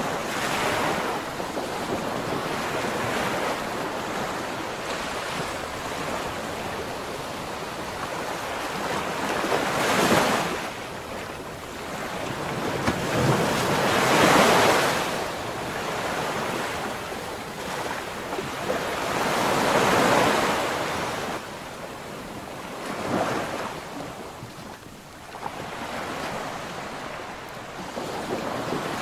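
Ocean waves breaking and washing up the shore, each surge swelling and fading over a few seconds. The biggest surges come about ten and fourteen seconds in, with others around twenty and twenty-three seconds.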